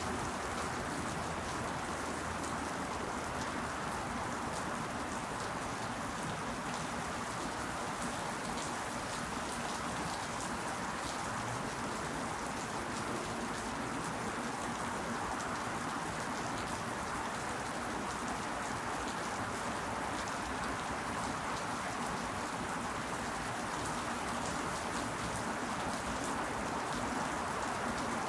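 Steady rain falling, an even continuous hiss made up of many small drop ticks, with no change in strength.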